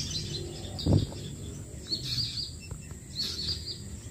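Small birds chirping in short series of quick, high repeated notes. A single dull low thump about a second in is the loudest sound.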